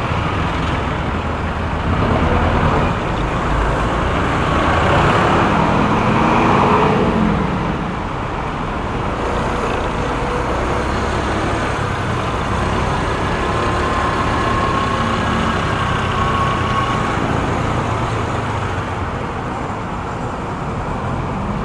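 Motorcycle riding through traffic: a steady rush of wind and road noise with the engine running underneath. It swells briefly with a rising tone about a third of the way in, and a faint held tone sits over it for a few seconds past the middle.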